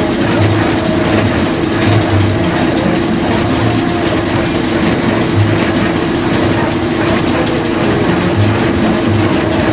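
Tractor engine and haying machinery running steadily, with a constant hum and irregular low rattling and clatter.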